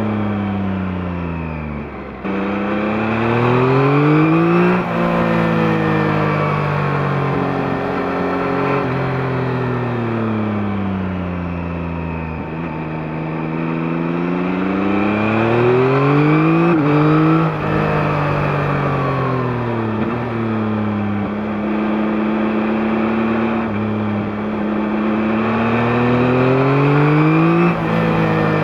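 Yamaha MT-09 (2021) three-cylinder CP3 engine through its stock exhaust under way: the revs climb three times, each climb cut by a sudden drop in pitch at an upshift, with the pitch falling and levelling off in between as the throttle closes.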